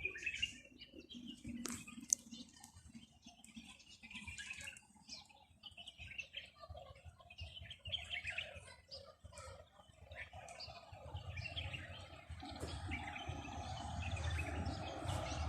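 Small birds chirping and calling in trees, with many short, scattered chirps. A low rumble builds up in the last few seconds.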